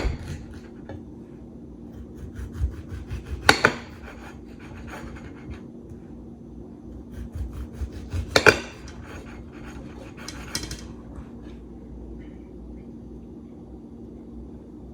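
Kitchen knife slicing a tomato on a cutting board: quick sawing strokes with sharp knocks as the blade meets the board, the loudest at about three and a half seconds and at eight and a half seconds.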